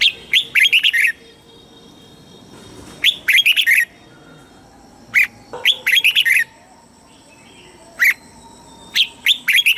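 Red-whiskered bulbul singing: short, bright phrases of quick whistled notes, repeated about every two to three seconds.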